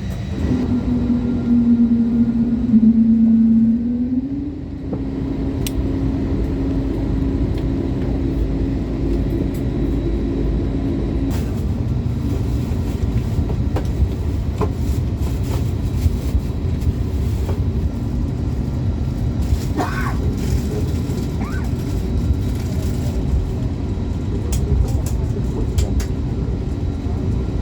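Cabin noise of an Airbus A321neo taxiing: a steady low rumble from the wheels and engines, with a humming tone that steps up in pitch about four seconds in and fades out about a third of the way through.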